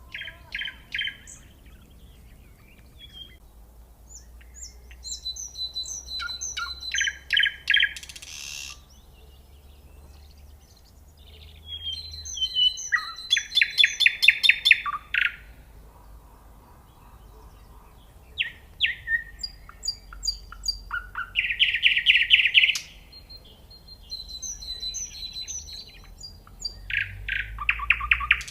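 Nightingale singing: five separate phrases a few seconds apart, each made of rapid repeated notes and fast trills.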